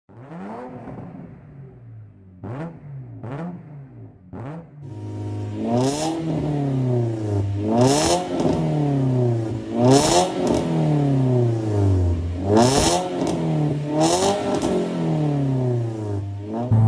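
Toyota Avanza's 1.3-litre 1NR-VE four-cylinder engine revved through an aftermarket ProCircuit muffler and FlowAbsorb resonator exhaust. It opens with three quick throttle blips, then five longer revs that each climb and fall back, about every two seconds.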